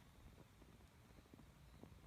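Faint crackling of a burning pine torch: sparse small pops over a low, steady rumble of the flame.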